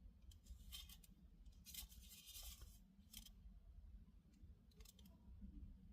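Near silence with a low hum, broken by a few faint, short rustles and clicks, like an item or paper being handled.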